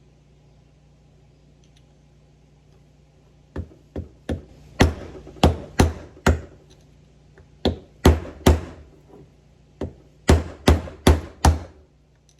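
Hammer blows on the lock nut of a 1978 Ford steering box, knocking it loose after its set screw has been removed. About fifteen sharp metal strikes come in uneven bursts, starting a few seconds in, each with a short ring.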